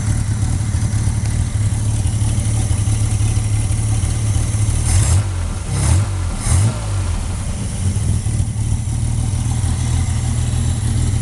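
A 3.4-litre V6 engine idles steadily. Between about five and seven seconds in it is blipped three times by hand at the carburettor throttle linkage, each rev rising and falling quickly back to idle.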